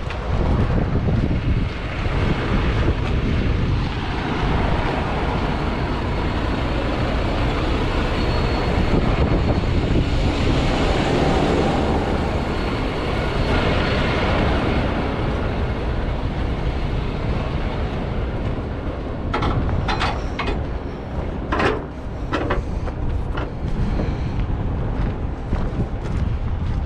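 Steady loud rumbling noise throughout, with a short run of sharp metallic clanks about twenty seconds in as load-securing chain is handled.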